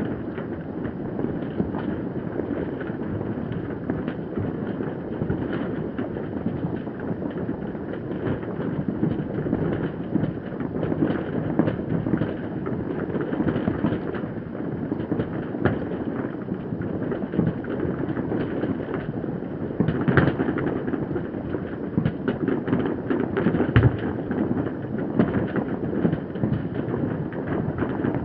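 Many fireworks going off across a city at once, heard from afar: a continuous rumble and crackle of overlapping bangs and pops, with a couple of louder bangs in the second half.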